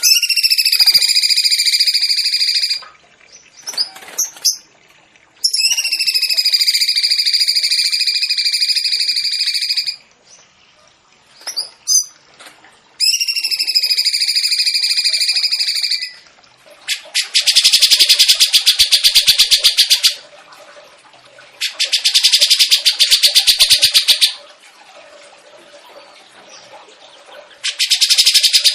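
Songbird song on a masteran tutoring recording. Three long, level, whistled notes of several seconds each come first, then three bursts of a very fast rattling trill.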